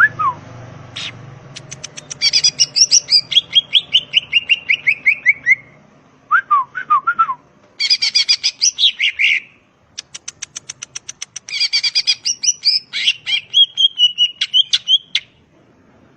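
Cucak ijo (green leafbird) singing in rapid bursts of loud chattering, whistled notes, several phrases broken by short pauses. One phrase early on runs down in pitch as it goes.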